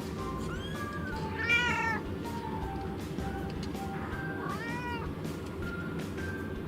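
A cat meowing a few times, the loudest meow about a second and a half in, another near five seconds in.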